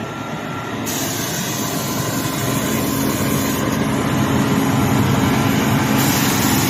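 Heavy diesel truck engine running hard under load, its drone growing steadily louder.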